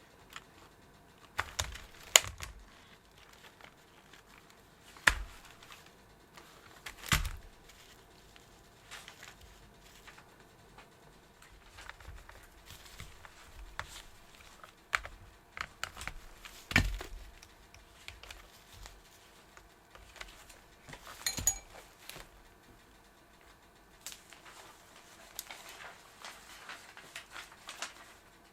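Scattered clicks and knocks of hard plastic parts being handled and fitted together while working on a vacuum cleaner's rotating-brush head. The loudest knocks come about two, five, seven and seventeen seconds in.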